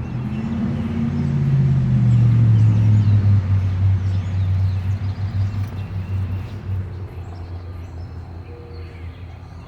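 A motor vehicle passing by: its low engine sound grows louder to a peak two or three seconds in, then fades away. Small birds chirp faintly above it.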